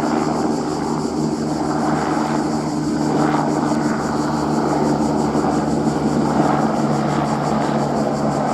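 Airbus AS350 helicopter running steadily and close, its turbine and main rotor making a loud, even drone with a fast, regular blade pulse.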